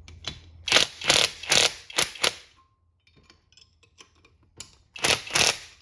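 Ratchet wrench working in short, quick strokes, a run of about five strokes about a second in and two more near the end, tightening the nuts on a bearing splitter.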